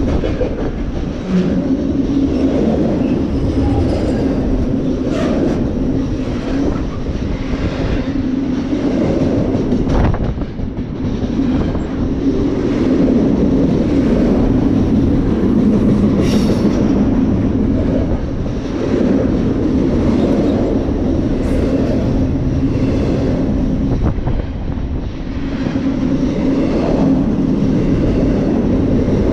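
Freight train's cars rolling past on the rails: a steady low rumble with a few sharp clicks and clanks.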